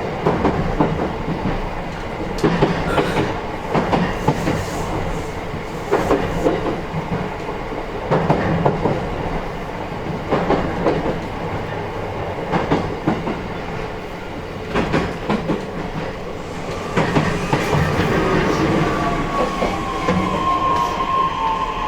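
Onboard running sound of a JR East E131-1000 series electric train, recorded in a motor car: wheels clicking over rail joints in pairs about every two seconds. From about 17 seconds in, the traction motor whine rises out of the running noise and falls in pitch as the train slows.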